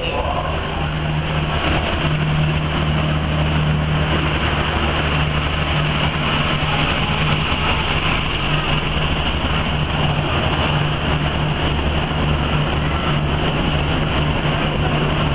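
Passenger train moving past a station platform: a steady low diesel hum with a continuous rumble of the coaches rolling by.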